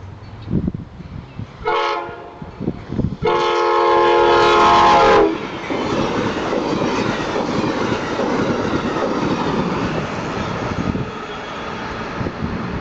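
Amtrak Keystone passenger train sounding its horn, a chord of several notes: a short blast, then a longer, louder one. The train then runs past with a steady rush of wheel and rail noise.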